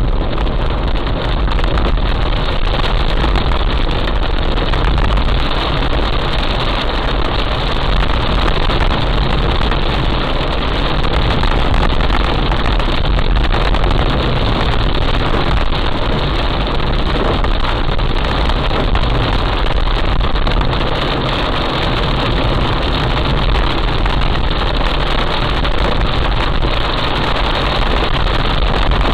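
Heavy rain falling steadily: a dense, unbroken hiss with a strong low rumble underneath.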